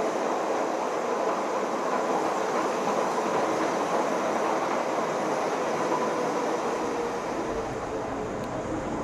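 Train running: a steady rushing noise with a faint steady whine, a low rumble joining in near the end.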